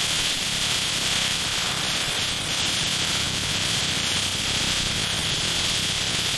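Steady, even hiss like static, with a brighter high band and no rhythm or knocks.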